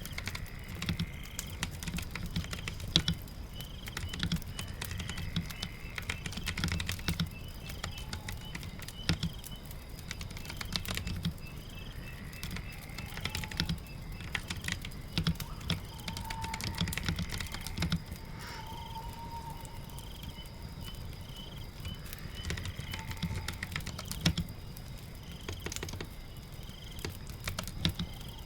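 Typing on a keyboard: quick runs of key clicks in bursts with short pauses, over a steady low background rumble, with faint short chirps repeating higher up.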